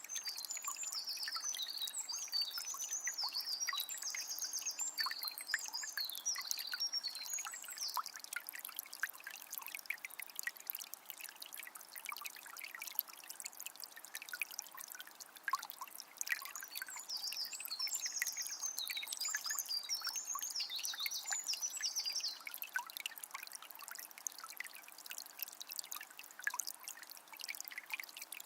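Water of a small spring trickling and splashing in a steady patter of small drips. A small bird sings in quick high chirping phrases for the first several seconds and again in the middle.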